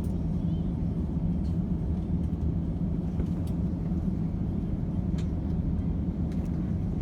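Steady low rumble of engine and airflow noise inside the cabin of an Airbus A350-900 in flight, with its Rolls-Royce Trent XWB engines running. A few faint clicks sound over it.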